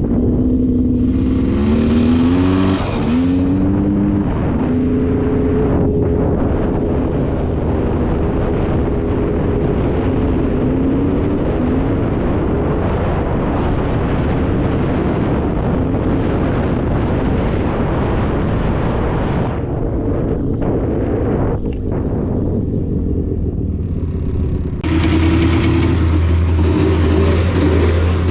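Polaris Scrambler 400 two-stroke ATV engine running, its pitch rising and falling as the throttle is worked. A short burst of hiss comes about two seconds in, and a louder hiss joins near the end.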